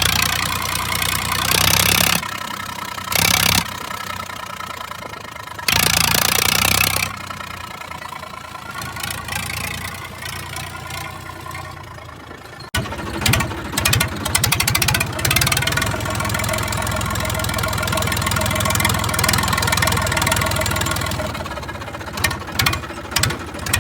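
Massey Ferguson 1035 DI tractor's three-cylinder diesel engine running with its silencer removed, an open exhaust that is very loud. Loud surges of exhaust noise come in the first several seconds. About halfway through the sound changes abruptly to steadier running with quick, distinct firing pulses, and there are a few short surges near the end.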